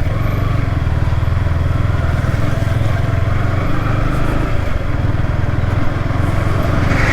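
Yamaha R15 V3's single-cylinder engine running at a steady pitch under way, with an even hiss over it. The engine note eases briefly a little past the middle.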